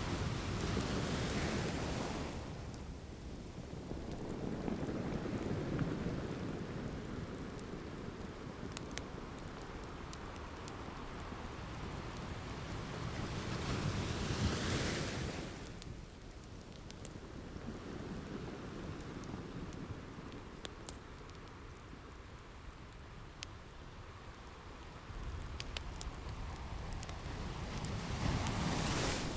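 Ocean waves washing onto a shore, swelling and fading in three slow surges about fourteen seconds apart, with a wood fire crackling in scattered sharp pops throughout.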